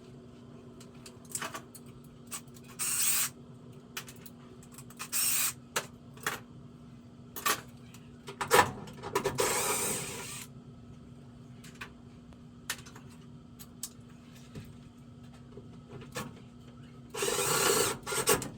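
Power drill driving screws in four short runs while a new high-limit switch is mounted in the furnace sheet metal, with clicks and knocks of handling between runs. A steady low hum sits underneath.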